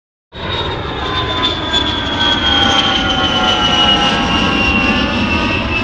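Jet airliner engines passing close by: a loud rumble with a high fan whine and several other tones slowly falling in pitch.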